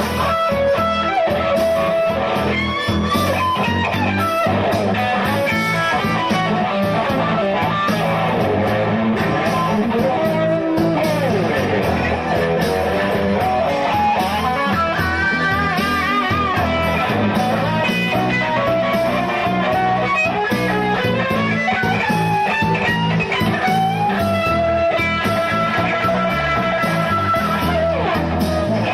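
Blues-rock music: electric guitar playing bending lead lines over bass guitar and a steady beat.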